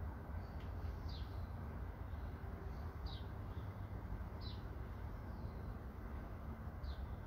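Four faint, short, falling bird chirps spaced a second and a half to two and a half seconds apart, over a steady low background rumble.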